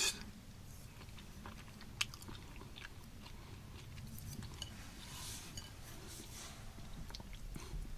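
A person chewing a mouthful of beans from MRE minestrone, soft and quiet mouth sounds, with one sharp click about two seconds in.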